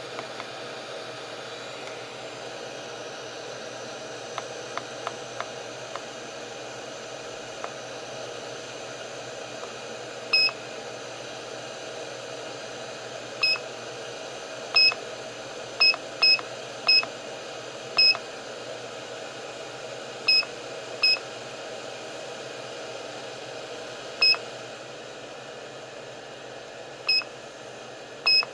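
Hot-air soldering station blowing a steady hiss of air, with about a dozen short, high electronic beeps at irregular intervals from about ten seconds in. The hiss drops a little near the end.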